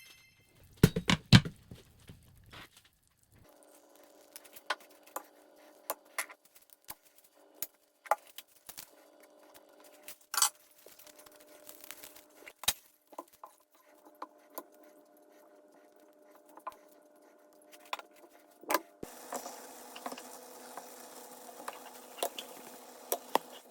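Kitchen work: scattered clinks, taps and knocks of utensils and dishes, with a few heavier thumps about a second in. A louder steady hiss-like noise joins about three quarters of the way through.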